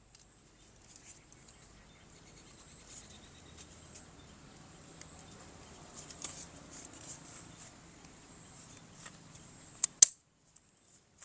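Faint handling noise with scattered small clicks, then two sharp clicks close together near the end, followed by a brief silence.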